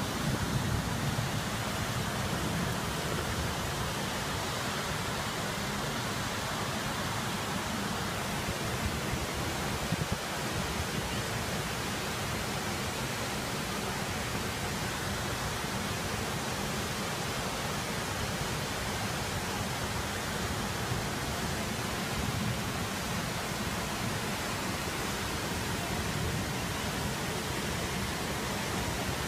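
A steady, even hiss of noise, with one brief knock about ten seconds in.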